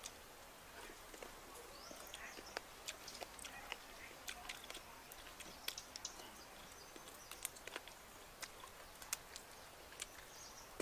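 Faint, scattered smacks and clicks of eating: two people chewing and gnawing on cooked chicken feet, with faint bird calls in the background.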